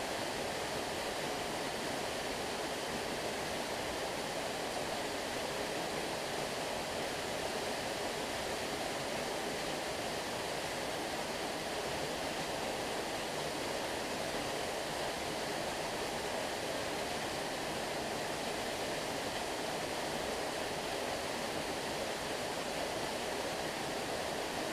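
Stream water flowing steadily, a constant rushing with no breaks or separate splashes.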